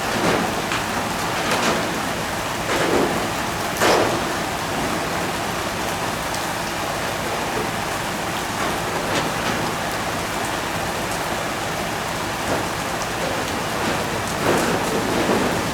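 Fire being fought at a large oil-factory blaze: a steady rushing hiss, broken by sharp cracks and pops several times in the first four seconds and again near the end.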